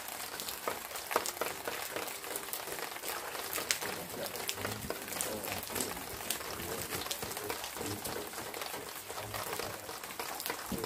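Steady rain falling on a pond's surface: an even hiss with many scattered sharp drop ticks.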